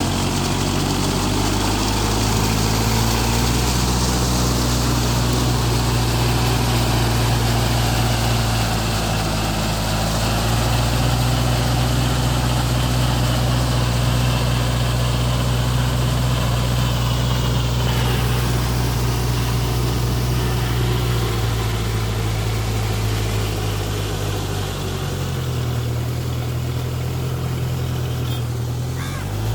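Tractor engine running steadily with a low, even note. The note changes about 25 seconds in and starts to rise at the very end.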